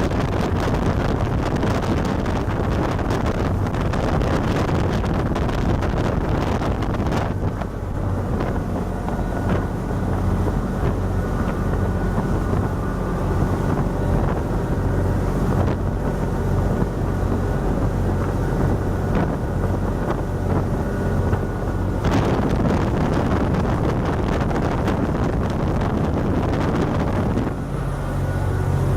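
Motorboat engine running steadily while the boat is under way, with rushing wind on the microphone. The engine note's low tones grow stronger near the end.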